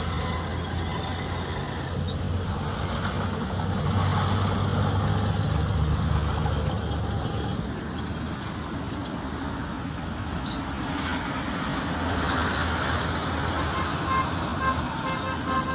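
Road traffic: vehicle engines running steadily, with short horn toots starting near the end.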